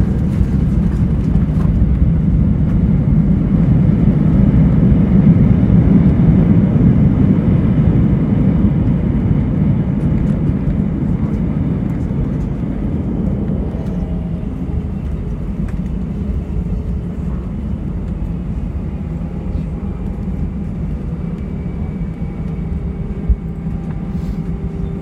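Airbus A320 landing, heard from inside the cabin: a heavy low engine and airframe rumble swells for about six seconds and then eases off, with steady engine tones showing through as it quietens. A single knock comes near the end.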